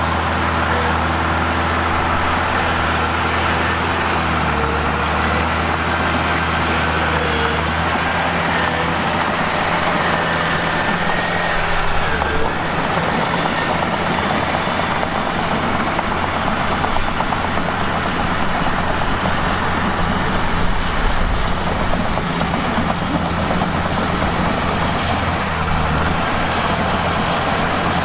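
Mitsubishi bulldozer's diesel engine working under load, its note shifting a few seconds in and turning rougher and noisier about twelve seconds in.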